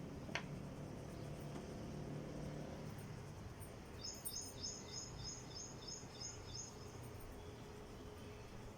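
A bird chirping outside: a rapid, regular series of short high calls, about three or four a second, starting about four seconds in and lasting about three seconds. A single sharp tick sounds just after the start, over a faint low hum.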